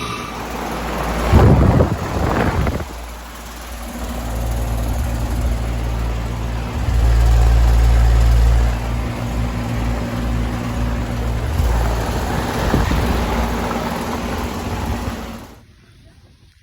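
2018 Payne PH14 2.5-ton heat pump outdoor unit running, a steady compressor hum under the rush of its condenser fan. There is a louder rush of noise about two seconds in.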